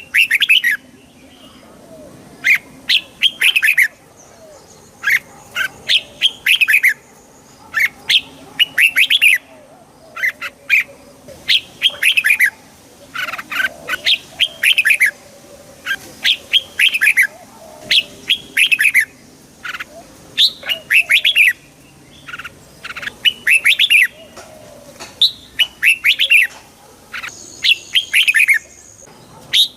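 Red-whiskered bulbul singing: short, bright warbled phrases repeated with brief pauses, about one every second or so.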